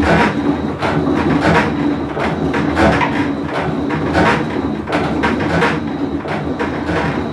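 Whirlpool Cabrio top-load washer running loud, a constant rumble with irregular clattering knocks two or three times a second: the noise of a bad tub bearing.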